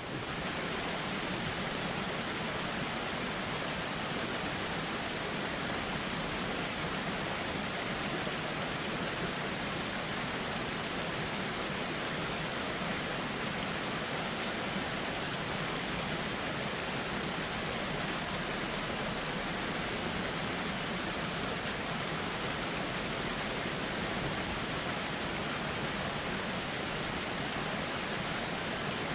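Steady, unbroken rushing of a flowing river.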